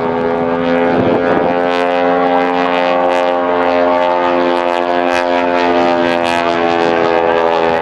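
Propeller-driven aircraft passing overhead, its engines droning in a steady, many-toned hum whose pitch sinks slowly as it goes by.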